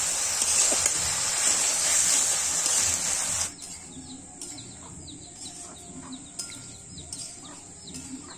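Food frying in hot oil with a steady sizzle, which cuts off abruptly about three and a half seconds in. After that, birds chirp in short, quick, repeated notes over a quiet background.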